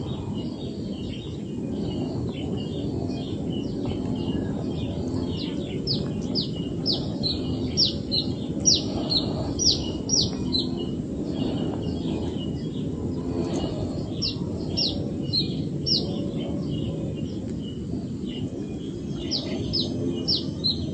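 A bird calling in runs of quick, sharp chirps, about two a second, that come and go several times, over a steady low background hum of outdoor noise.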